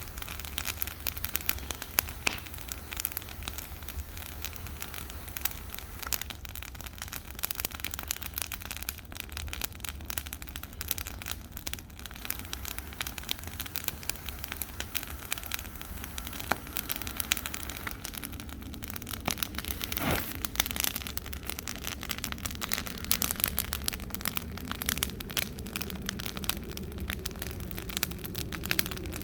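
Bonfire of dry Christmas trees burning, with dense crackling throughout and a low rumble underneath; one sharper crack comes about two-thirds of the way through.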